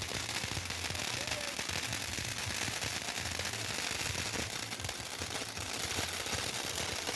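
Bonfire crackling, a dense, steady run of small pops and snaps.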